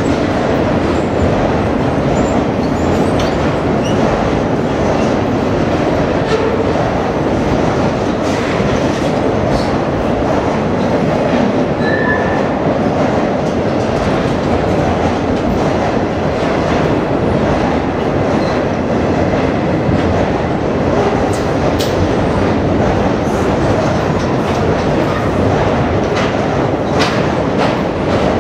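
Loaded circus-train flatcars rolling slowly past on the track in an enclosed underground station: a steady rumble of steel wheels with scattered clicks over the rail joints. There is a brief high-pitched squeal about twelve seconds in.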